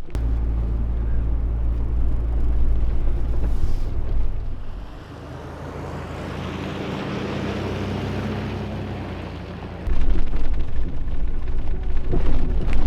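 Vehicle driving: a loud, steady low engine and road rumble that drops away about five seconds in, giving way to a quieter hiss that swells and fades, before the heavy rumble returns abruptly about ten seconds in.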